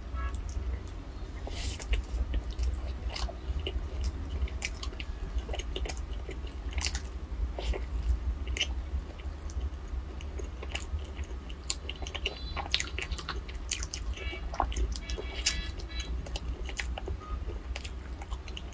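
Close-miked chewing of soft filled bread, with many short, sharp wet mouth clicks and a few bites, over a steady low hum.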